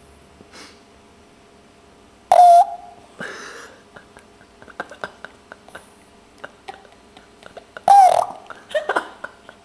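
Dog snoring: two loud snorts about five and a half seconds apart, each with a short squeal that bends in pitch. The first is followed by a breathy exhale.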